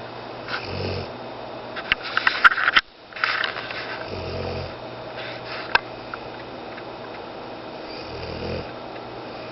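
Dog snoring in its sleep: three slow snores about four seconds apart. A burst of sharp crackling clicks comes between the first and second snores.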